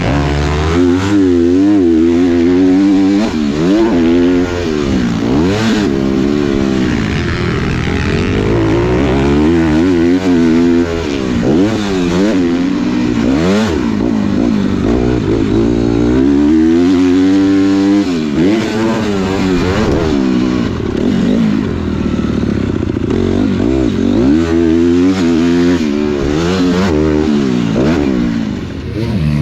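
Motocross dirt bike engine revving hard while being ridden on a track. The pitch climbs and drops again and again as the throttle opens and closes through turns and jumps.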